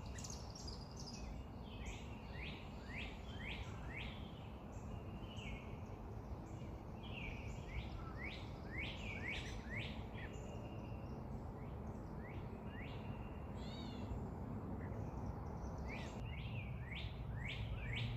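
Birds chirping: clusters of short, quick sweeping notes repeated again and again over a steady low background rumble.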